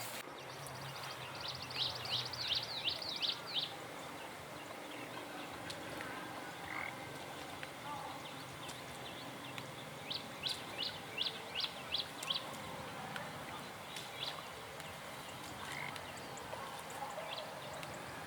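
An animal calling in two quick runs of short, high chirps, about eight notes a couple of seconds in and about seven more around the middle, with a few single chirps between.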